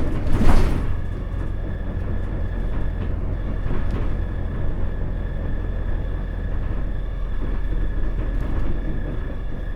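Isuzu KL-LV380L1 city bus heard from inside while driving: a steady low engine drone with a thin constant whine above it. About half a second in there is a short, loud burst of hiss.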